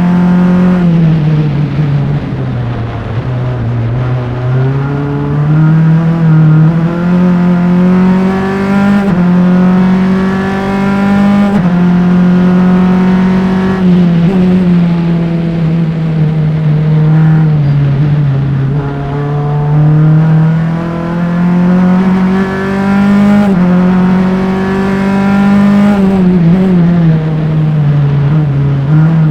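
Single-seater race car's engine at racing speed, rising in pitch under acceleration and falling away under braking several times, with sudden steps in pitch at the gear changes.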